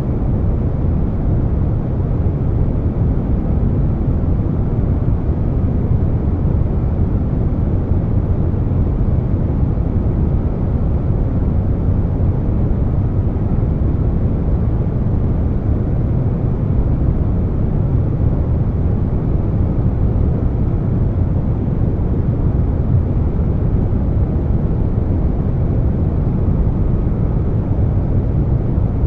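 Air conditioner running steadily, mixed with brown noise: an even, deep hiss weighted to the bass, with no changes.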